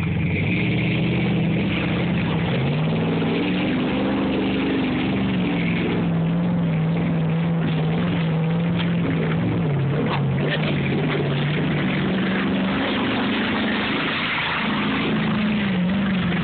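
A vehicle engine running under load, its pitch climbing a few seconds in, holding steady, dipping about ten seconds in, then rising and falling again near the end.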